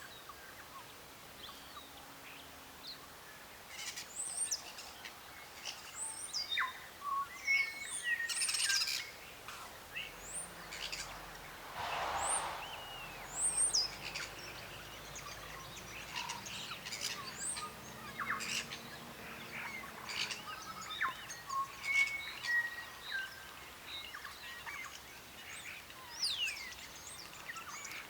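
Several birds chirping and calling, many short high chirps and whistles overlapping, busiest in the middle stretch.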